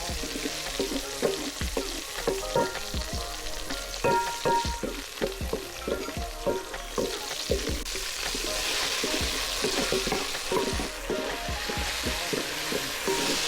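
Food sizzling as it fries in a pan, stirred with a spoon that knocks and scrapes against the pan many times.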